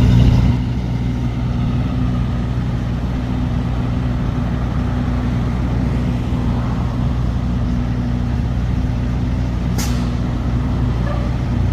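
Truck engine running steadily with a low hum, dropping slightly in level just after the start. A single short, sharp hiss comes about ten seconds in.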